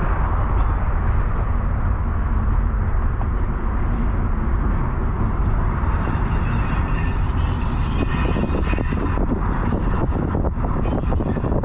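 Steady low rumble of a vehicle in motion, with wind buffeting the microphone. A high hiss comes in for about three seconds near the middle, and a quick run of clicks or knocks follows near the end.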